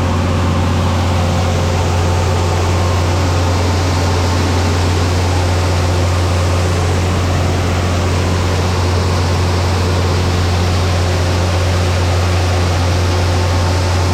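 Farm machinery unloading a wagon of soybeans, running steadily: a constant low engine hum under an even hiss, with no change in speed.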